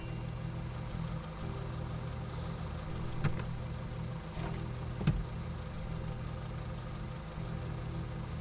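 Car engine idling, heard from inside the cabin as a steady low hum. A sharp click comes about three seconds in and a louder knock about five seconds in.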